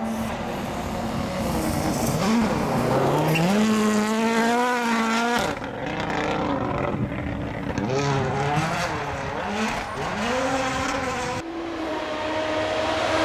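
World Rally Car's 1.6-litre turbocharged four-cylinder engine at full throttle, climbing steeply in pitch and then cutting off sharply about five seconds in. It then rises and falls several times as the throttle is worked, and cuts again near the end.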